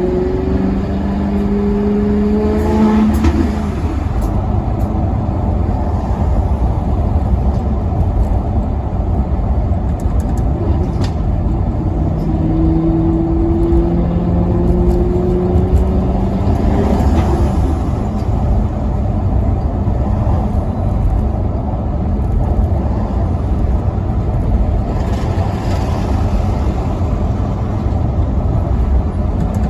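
Maserati Quattroporte Sport GT V8 under acceleration: the engine note climbs during the first few seconds and again about halfway through, each rise cutting off sharply as the gearbox shifts. A steady rumble of engine and road noise runs underneath.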